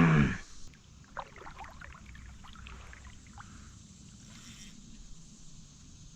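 Faint knocks and rustles of handling aboard a kayak, with light water sounds, while a fish that swallowed the lure is being unhooked for release.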